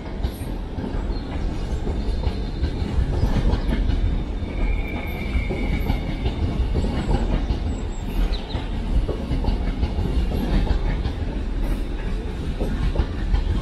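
Two coupled LNER class 801 trains departing and rolling past: a steady rumble of wheels on rail with repeated knocks as the wheels run over the points, and a brief high wheel squeal about four or five seconds in.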